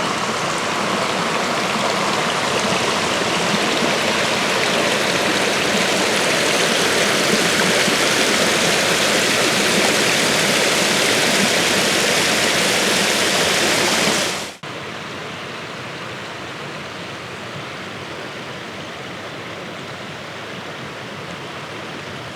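Water of a small multi-strand waterfall splashing down rock in a steady rush. About fourteen seconds in it cuts off abruptly and goes on as a softer, steady rush.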